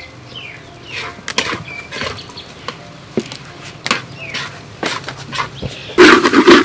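Metal utensil clicking and scraping in a pan as fried rice is stirred, with a loud burst of scraping near the end. Short bird chirps sound now and then.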